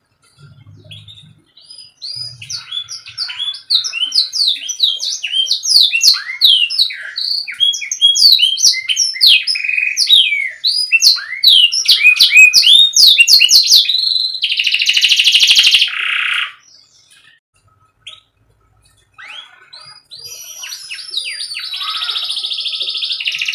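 Domestic canary singing: a long run of fast, repeated down-slurred notes, then a buzzing roll that stops about sixteen seconds in; after a short pause the song starts again and ends in more buzzing rolls.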